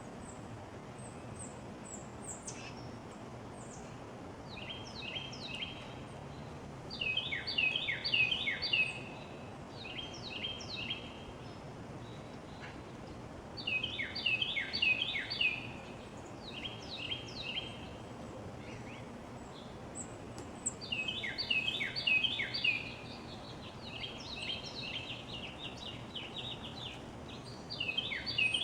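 A songbird singing bouts of quick, repeated down-slurred phrases, each bout lasting a second or two and coming every few seconds, over a steady background hum. Faint high thin calls sound now and then.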